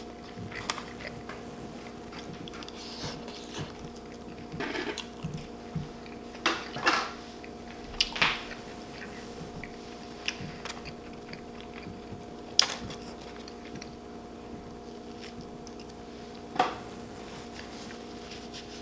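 Close-miked chewing and biting, with scattered sharp clicks and clinks of cutlery against dishes, over a faint steady hum.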